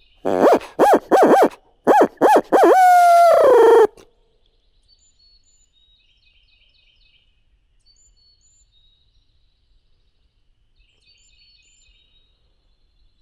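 Barred owl hooting nearby: a quick run of rising-and-falling hoots, then a long final note that slides downward, about four seconds in all. Faint high chirps of distant birds follow.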